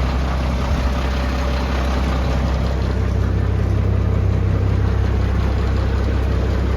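International DT466 inline-six diesel engine of a pump fire truck idling steadily.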